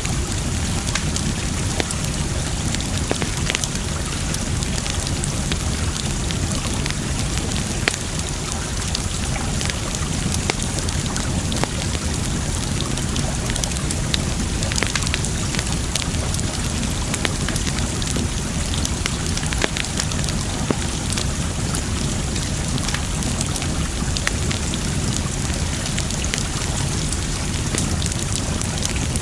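Campfire wood crackling and popping in many small sharp snaps over a steady rush of running water.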